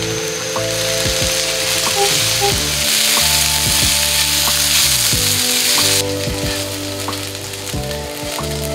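Broad beans and potatoes sizzling in hot oil in a pan. The sizzle builds to its loudest in the middle and drops off suddenly about six seconds in.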